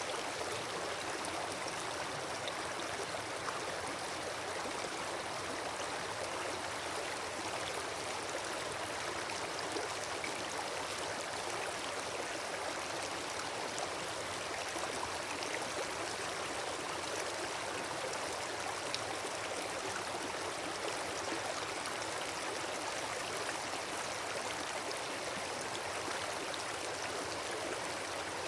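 Wood campfire burning: a steady hiss with sparse faint pops and crackles.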